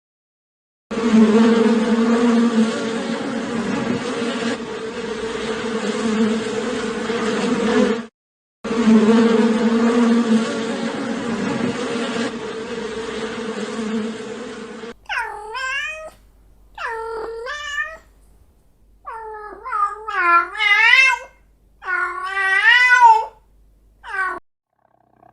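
Bees buzzing in a steady drone, in two long stretches with a short break. Then a cat meows several times, each meow wavering in pitch.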